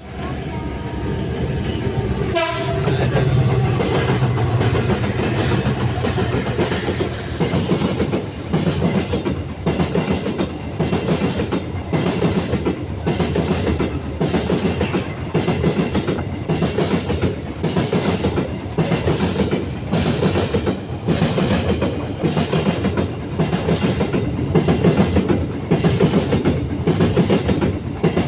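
Coal train hauled by a CC205 diesel-electric locomotive passing, with its horn sounding near the start. Then the wagons' wheels clatter over the rail joints in a steady rhythm of about one beat a second, over the low rumble of the train.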